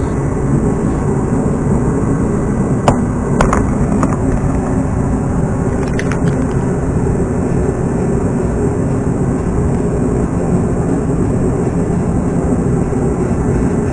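Steady, loud rumbling noise, like a motor or fan running, with a few sharp clicks about three, four and six seconds in.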